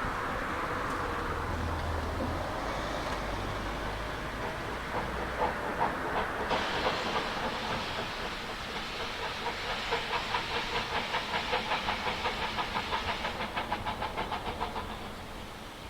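Harz narrow-gauge train running past, its rhythmic clatter settling into about three to four beats a second before fading away near the end.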